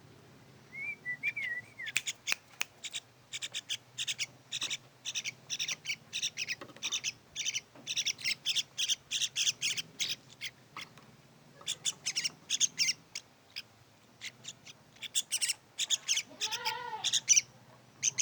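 Yellow-vented bulbuls chirping: bouts of short, high chirps repeated about three to four times a second. One lower, arched call comes near the end.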